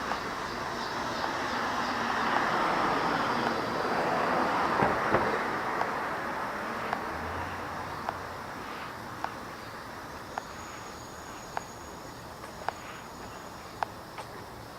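A passing vehicle's noise swells and slowly fades, with a light tick about once a second throughout.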